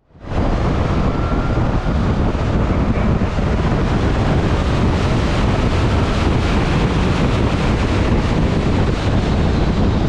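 Heavy wind rush buffeting the microphone of a rider on a Zero DSR/X electric motorcycle at speed, a steady low rumble with hiss; the electric drive makes so little noise that the wind covers it.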